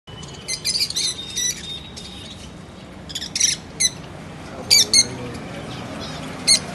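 Pet lovebirds giving short, shrill chirps and squawks in scattered clusters, the loudest calls near the middle and end.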